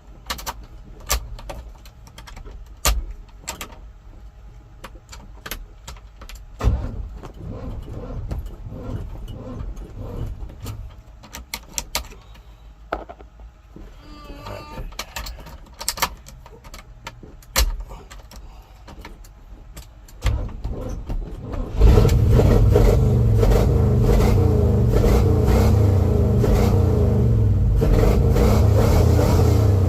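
Car engine cranked and started about 20 seconds in, catching a couple of seconds later and then running loud and steady. Before that, only scattered light clicks and knocks.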